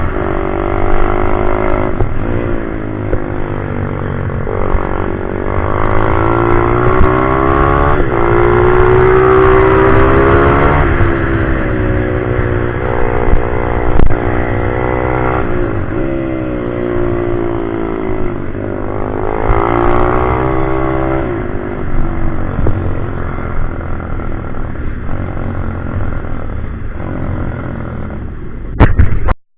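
Pit bike engine being ridden hard, its revs climbing and falling several times. The sound cuts off suddenly at the very end.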